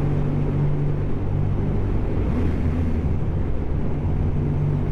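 A BMW GS motorcycle engine runs at a steady cruising pace while riding, with road and wind noise. The engine note shifts briefly near the middle.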